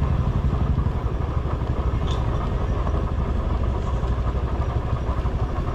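Motorcycle engine running steadily, with a fast low pulsing throb.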